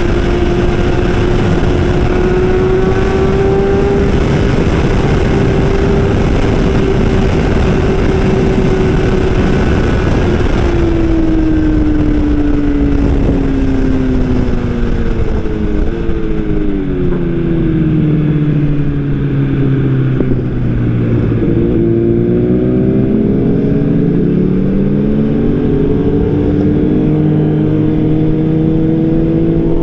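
Superbike engine at high revs with a strong rush of wind for about ten seconds. The engine then slows, its pitch falling over several seconds as the wind rush fades, and it picks up again with the pitch climbing near the end.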